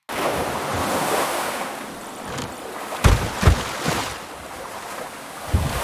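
Wind rushing over the microphone by open water, with waves washing, and a few loud low thumps of wind buffeting about three seconds in and again near the end.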